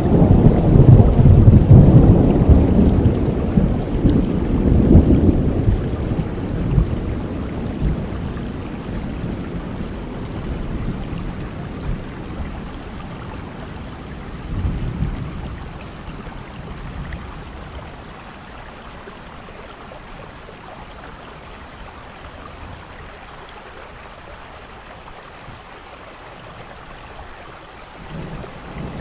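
Rain falling steadily, with a long roll of thunder in the first few seconds that slowly fades away, a smaller rumble about halfway through, and another roll beginning near the end.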